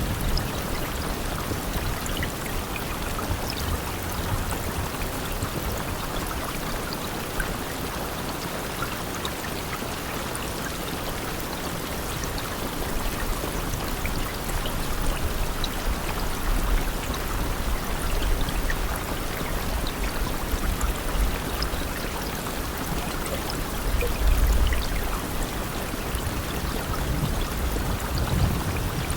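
Steady rain falling, an even hiss with scattered drop patter and low rumbling swells, the loudest about 24 seconds in.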